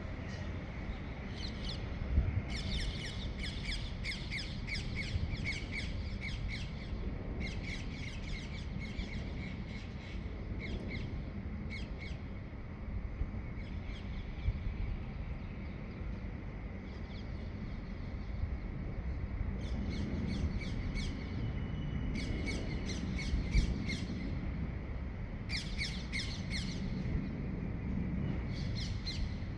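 Birds calling at dawn in rapid chattering runs of about one to two seconds, repeated every few seconds, over a steady low rumble.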